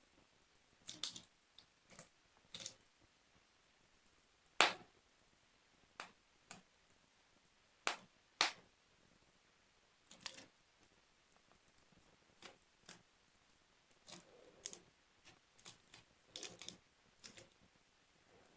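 Slime being worked by hand, giving scattered sharp clicks and pops at irregular intervals.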